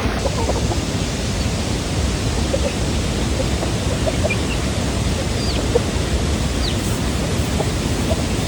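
Steady rushing of water, an even loud wash with no break, with a few faint short high chirps over it.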